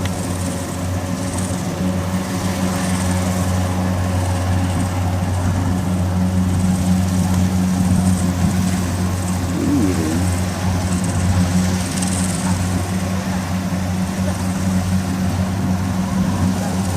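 Kubota DC60 combine harvester's diesel engine running steadily with an even, low drone.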